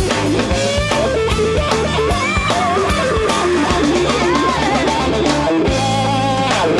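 Instrumental blues shuffle from a rock band: an electric guitar lead with bent, wavering notes over bass and drum kit.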